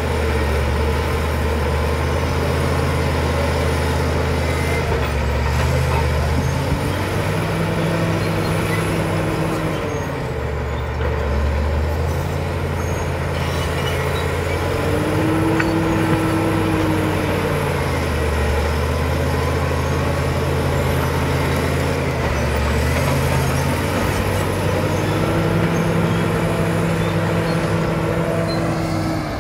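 Caterpillar D7 bulldozer's diesel engine running under working load, its note rising and falling every few seconds as the machine pushes and eases off, with a faint high whine above it.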